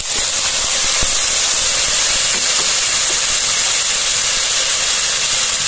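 Boiled chicken pieces, parboiled macaroni and sliced onions sizzling in hot oil in a frying pan as they are sautéed, a steady hiss.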